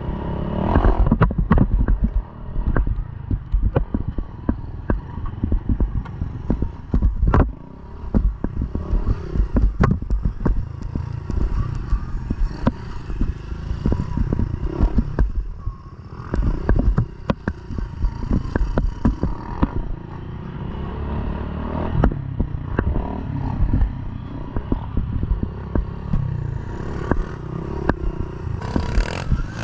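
Motorcycle engine running while riding over rough ground, with constant rattling and knocks over a low rumble.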